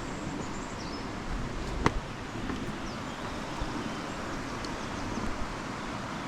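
Steady rushing outdoor background noise with a few faint bird chirps and one sharp click about two seconds in.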